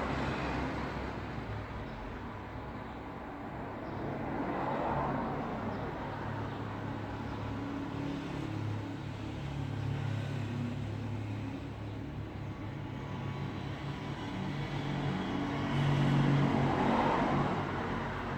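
Road traffic: a continuous rush of tyre and engine noise with a steady low engine hum, swelling as vehicles pass, once about five seconds in and louder near the end.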